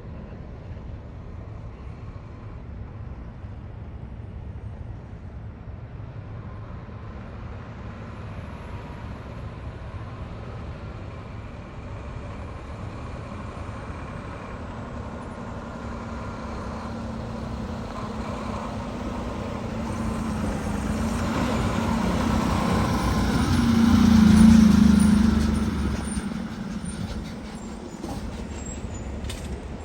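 Fire engine's diesel running, a steady low rumble that grows louder over several seconds, is loudest about 24 seconds in, then fades as it passes.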